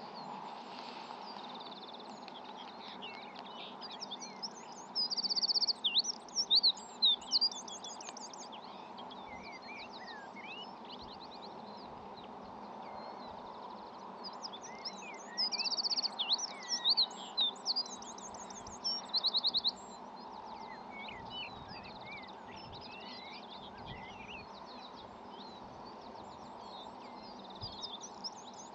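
Songbirds singing, with a loud song bout of quick notes and rapid trills twice, about five seconds in and again about fifteen seconds in. Other chirps come and go over a steady low background noise.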